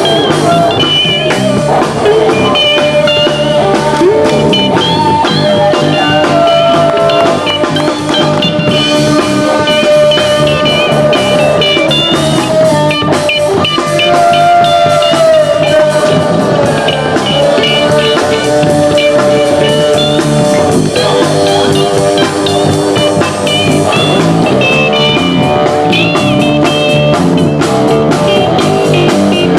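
Rock music with electric guitar and drum kit, a bluesy psychedelic jam with long bending lead-guitar notes over a steady beat.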